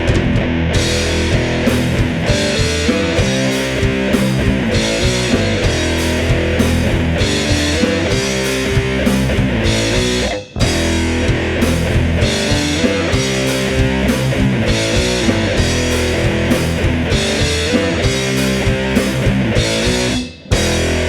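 Heavy doom metal played by a band: a distorted electric guitar riff over bass and drum kit, with no singing. The whole band stops for a split second about halfway and again near the end.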